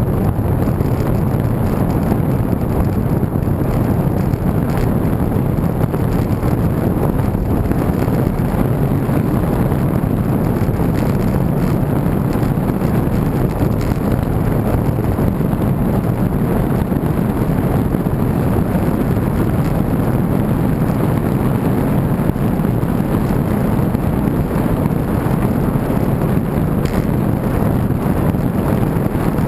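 Wind rushing over the microphone of a camera riding along on a moving road bike, a steady low rumble.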